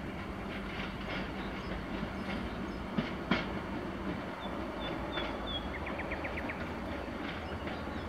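SM42 diesel-electric shunting locomotive and an EN57 electric multiple unit approaching side by side on parallel tracks. A steady diesel engine drone runs under the sound of the wheels, with two sharp knocks over rail joints about three seconds in.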